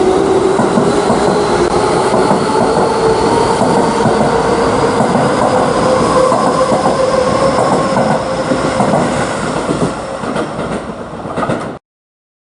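An electric train running on rails, its motor whine rising in pitch as it gathers speed and then holding steady. The sound cuts off abruptly near the end.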